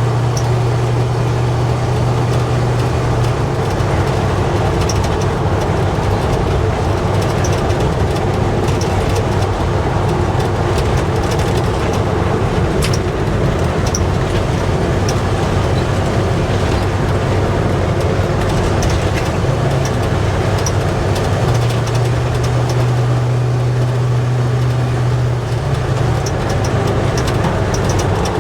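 1970 GMC K10 pickup driving down the road, heard from inside the cab: a steady low engine and exhaust hum over tire and road noise. The exhaust is present but mild, with no drone, and the engine note grows stronger briefly near the start and again about three-quarters of the way through.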